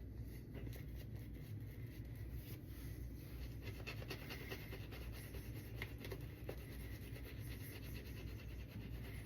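Shaving brush with a 26 mm knot being worked through shaving soap lather in a bowl, a faint steady scratchy, squishy rubbing as the water-loaded lather is whipped back up.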